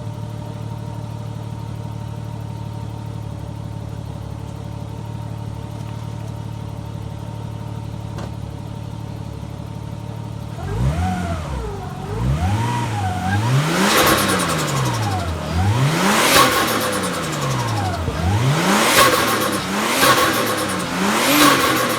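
Nissan Skyline R32 GTS-t's turbocharged RB20DET straight-six idles steadily, then about halfway through is blipped in a series of quick free revs. Around the top of each rev comes a loud fluttering chatter, turbo flutter from compressor surge with the blow-off valve blocked.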